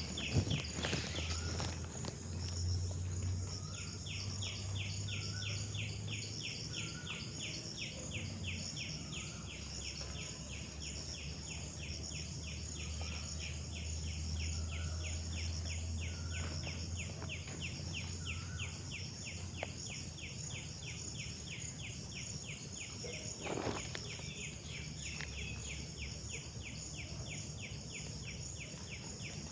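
Wild birds and insects calling together. A rapid, even chirping of about four to five pulses a second starts a few seconds in and carries on over a steady high insect drone, with short bird notes about once a second for the first ten seconds or so. A low hum lies under it all, and there is a single soft knock just before the last quarter.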